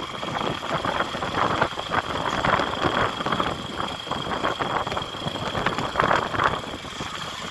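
A vehicle engine running amid rough, uneven noise, with a thin steady high-pitched whine throughout.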